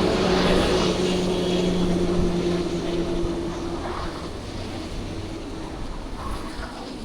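A passing motor vehicle's engine hum, steady in pitch, fading away over the first few seconds over a wash of traffic noise.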